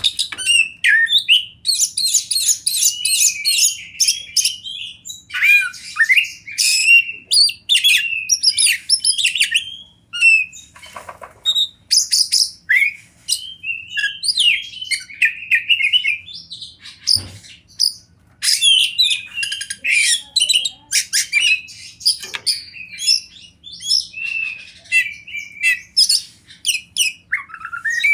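Oriental magpie-robin (kacer) singing a long, varied song of rapid chirps and whistled phrases, with only brief pauses.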